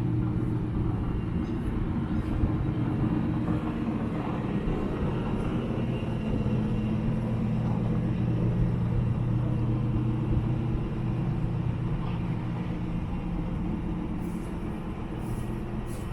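Steady low machinery hum.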